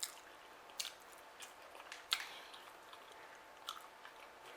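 Close-miked eating: soft, wet chewing and mouth sounds with a few sharp little clicks of lips or utensils, the loudest about two seconds in.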